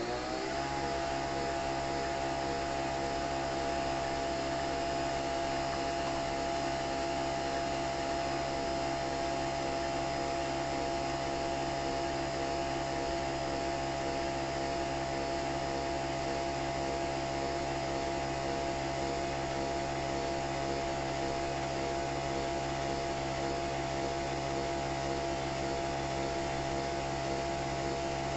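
Nespresso Vertuo Next coffee machine spinning the capsule during brewing: its motor whine finishes rising to speed in the first moment, then holds a steady whirring hum.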